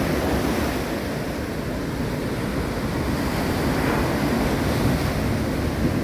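Ocean surf and wind: a steady rushing noise with a jittery low rumble of wind buffeting the microphone.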